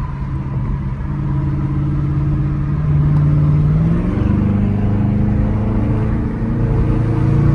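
Dodge Challenger V8 engine heard from inside the car, pulling steadily as the car drives on, with its engine note shifting in pitch about four seconds in.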